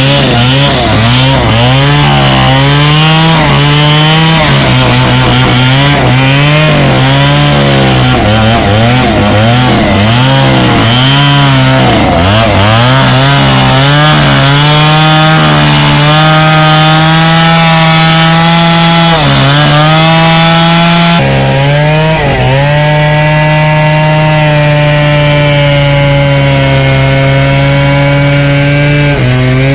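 Chainsaw cutting into a tree: the engine revs up and down over and over, then is held at high revs through the cut with a couple of brief dips.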